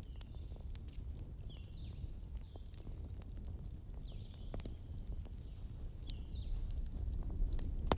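Wood fire crackling, with scattered sharp pops over a steady low rumble and one louder pop near the end. Short high bird calls come several times, with one longer whistle about halfway through.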